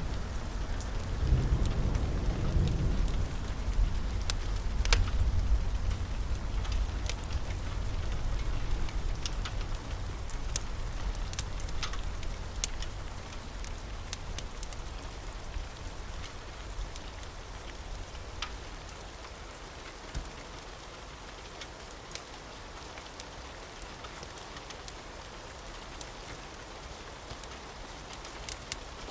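Steady heavy rain with a deep thunder rumble that rolls on through the first ten seconds or so and then fades away. Sharp crackling ticks are scattered throughout.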